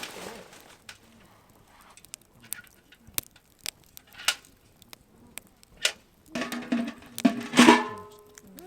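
Wood campfire crackling, with sharp scattered pops. About six seconds in, a pitched sound with several overtones joins for about two seconds and is the loudest part.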